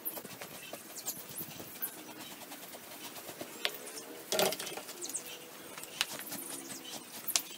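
Faint bird calls, with a few short sharp clicks and taps in between.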